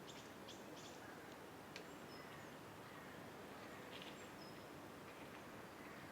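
Faint steady outdoor background hiss with a few short, high bird chirps and calls: a quick cluster at the start and another about four seconds in.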